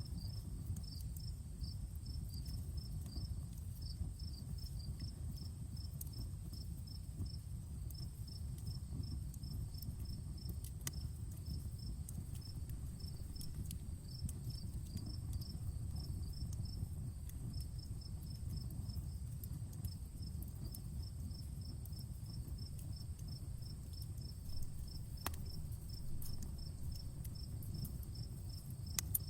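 Outdoor campfire crackling, with scattered sharp pops over a low steady rumble, while crickets chirp in a fast, even pulse of about four chirps a second with a few brief pauses.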